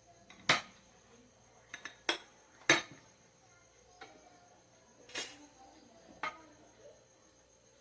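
Kitchen utensils knocking and clinking against cookware and dishes: about half a dozen sharp, separate clinks, the loudest about half a second in and near three seconds.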